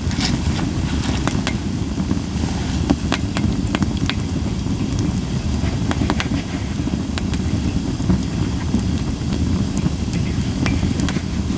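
Japanese white pine campfire crackling, with scattered sharp pops a few times a second over a steady low rumble.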